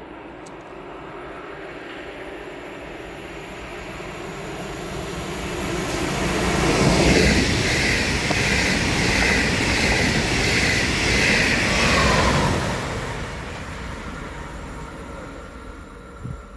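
A train passing through at speed: the rumble and rushing of wheels on rail build up, stay loud for about six seconds with a hissing high band, then die away.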